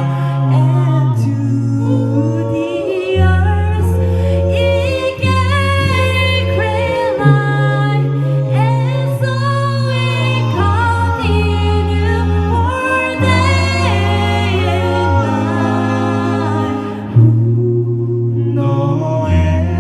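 An a cappella vocal group singing in close harmony over a sustained low bass voice, with no instruments.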